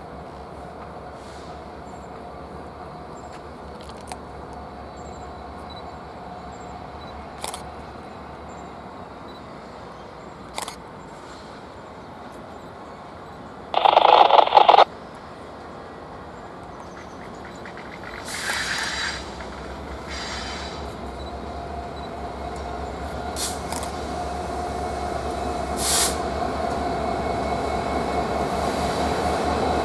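Train approaching: a steady rumble that grows steadily louder over the second half. Near the middle there is one short, loud blast about a second long.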